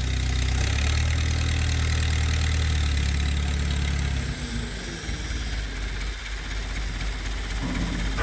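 A heavy machine's engine running, loud and steady for about four seconds and then easing off, as the lifting machine works to tip the dozer blade over.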